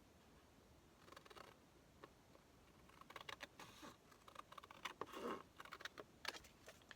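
Faint, scattered rustling and light tapping of paper and card being handled on a table.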